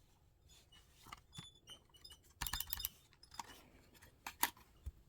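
Light plastic clicks and taps from handling a laptop and its parts, with a quick run of rattling clicks about halfway through.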